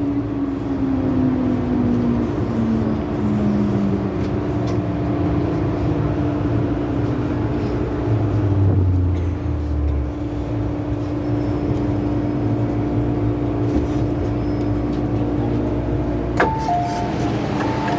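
MTR M-Train electric multiple unit running, its traction motor whine falling in pitch over the first few seconds, then a steady hum with wheel and track rumble. A sharp click comes about sixteen seconds in, followed by a couple of short higher tones.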